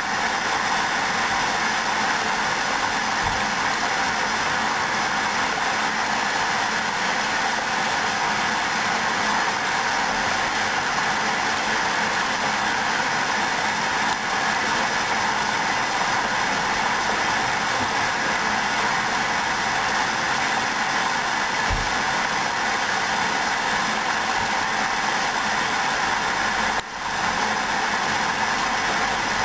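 Hoover washing machine running in the rinse stage of a 90° cotton wash: a steady machine noise, with a brief dip near the end.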